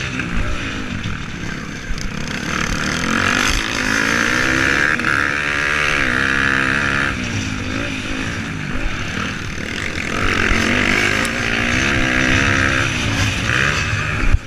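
Motocross motorcycle engines racing, the revs rising and falling repeatedly as the bikes accelerate and shift.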